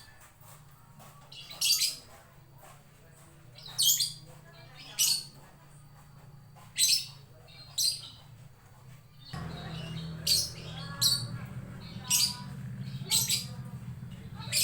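Lovebird giving short, shrill squawking calls, about ten of them roughly a second apart. A low steady hum comes in about nine seconds in.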